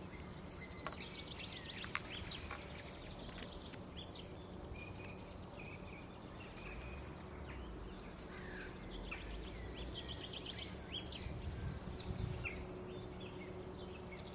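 Several small songbirds singing, a busy mix of short chirps, quick trills and brief whistles, over steady low background noise.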